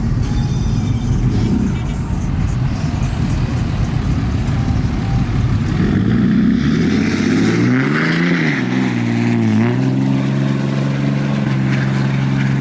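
A vehicle engine: a low rumble at first, then a rise and fall in pitch about halfway through, settling into a steady note near the end.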